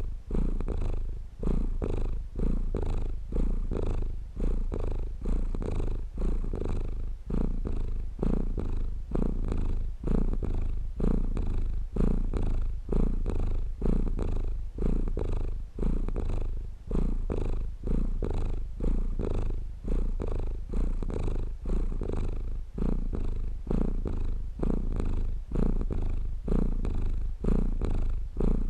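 Domestic cat purring steadily and close up, a low rumble that swells and dips in an even rhythm of about one breath cycle a second.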